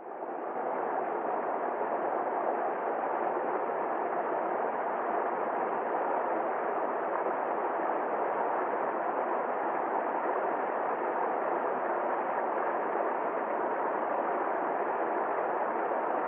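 River stream flowing in a steady, even rush of water that fades in at the start.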